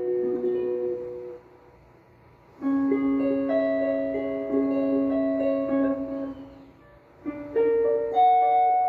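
Guitar playing three-note chords from the B melodic minor scale, the notes of each chord plucked one after another and left ringing together. The chords come in three phrases split by short pauses of about a second.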